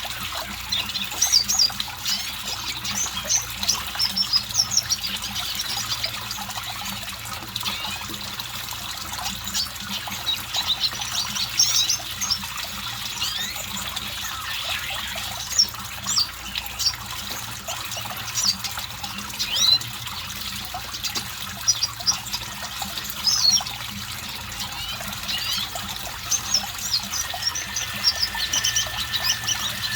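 Red siskin singing a rapid, continuous twittering song of short high chirps and trills.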